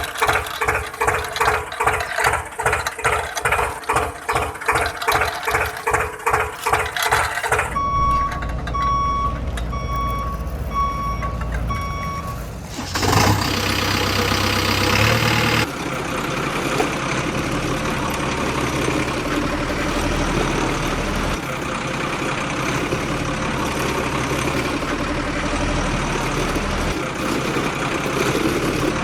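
Rapid ratcheting clicks, about three a second, give way to a vehicle reversing beeper sounding five times, about once a second. Then comes a short loud rush of noise and a steady engine-like running.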